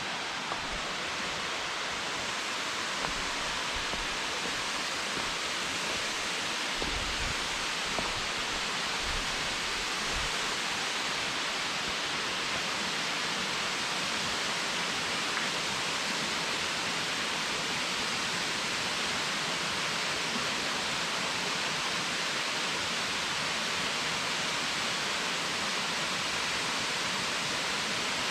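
Waterfall: a steady rush of falling water, with a few low thuds about seven to ten seconds in.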